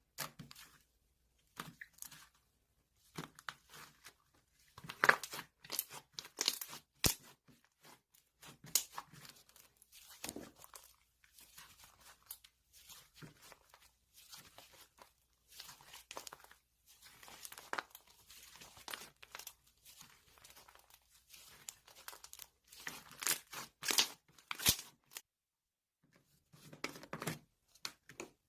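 Crinkling and tearing of a thin material, such as wrapping being handled, in irregular bursts with a few sharp clicks, close up in a small room.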